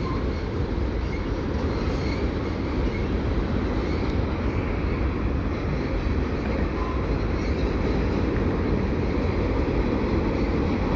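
Freight train rolling past with a steady rumble of wheels on the rails, growing a little louder.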